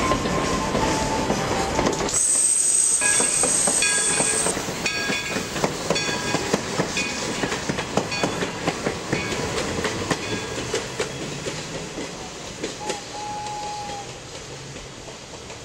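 Railroad passenger coaches rolling past close by, their wheels clacking over the rail joints with a ringing metallic tone. The sound fades as the train draws away. A high, steady squeal sounds for about two seconds near the start.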